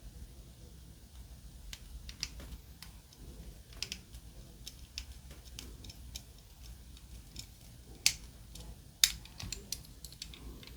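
A small screwdriver driving a screw into the base of a diecast model car, heard as scattered light clicks and ticks of metal and plastic parts being handled. Two sharper clicks come near the end.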